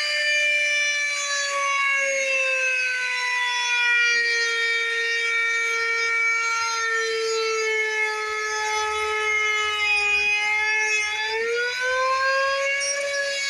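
Electric router running as it cuts a piece of RV siding to fit. Its steady whine sags slowly in pitch under the load of the cut, then climbs back up near the end as the bit eases off.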